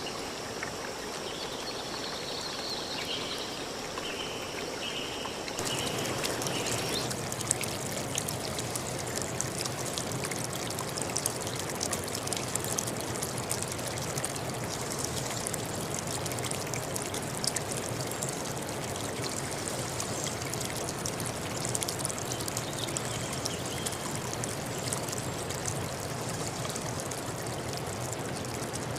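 For about the first five seconds, high chirping calls sound over a soft forest background. Then it changes abruptly to a stream rushing and splashing over rocks, with a dense, steady flow and many small splashes.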